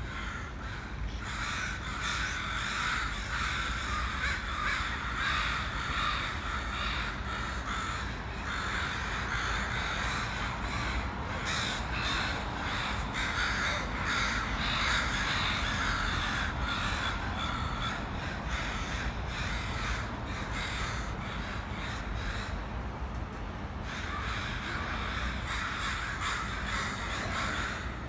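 A large flock of crows, about sixty birds, cawing continuously in many overlapping calls, easing a little for a few seconds past the middle.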